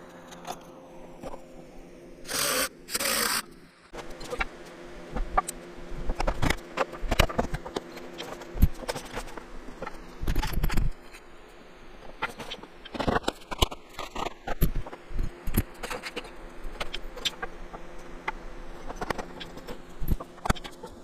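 Wooden parts being handled and fitted together in workbench assembly: irregular knocks, clicks and scrapes, with two short, loud hissing bursts close together about two and a half seconds in.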